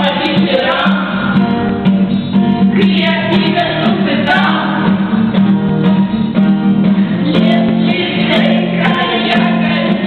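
Several voices singing a song together with acoustic guitar accompaniment.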